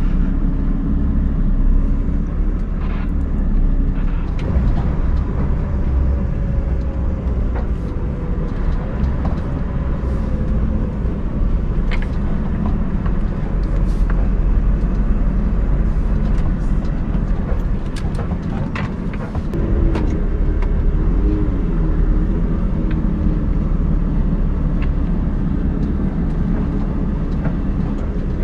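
Scania R580's V8 diesel engine pulling under load in snow, with the drive wheels spinning.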